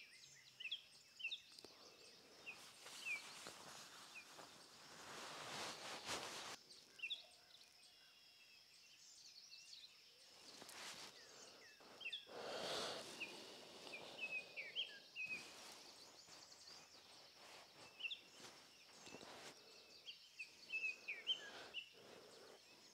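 Faint small-bird chirps, short calls scattered through the quiet, over a thin steady high tone. Two longer swells of noise come a few seconds in and again about halfway.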